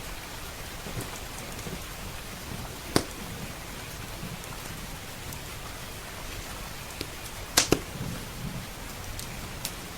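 Steady rain, with a few sharp crackles and pops from a wood fire in a fireplace; the loudest is a quick double pop about three-quarters of the way through.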